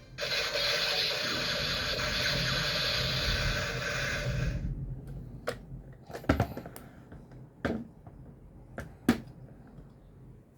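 Music that cuts off about four and a half seconds in, followed by a few sharp clicks and knocks, typical of a plastic toy transformation belt being handled.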